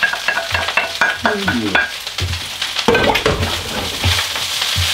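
Rice, egg and lettuce sizzling as they fry in a hot electric wok while minced beef is scraped off a ceramic plate into it. For the first two seconds there are quick sharp clicks with short ringing tones from a utensil on the plate, then the food is stirred and scraped around the wok.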